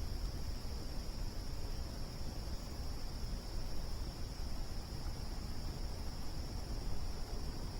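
A steady high-pitched chorus of night insects, over a continuous low rumble.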